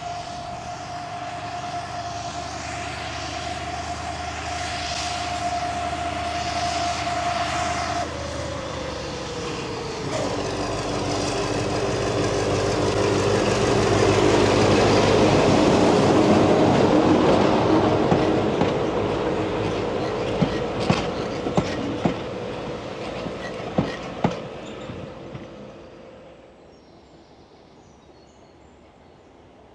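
Small diesel shunter hauling coaches past at close range. Its engine runs with a steady whine that drops in pitch about eight seconds in, then grows loudest as it passes. The wheels then click over the rail joints as the coaches go by, and the sound fades away.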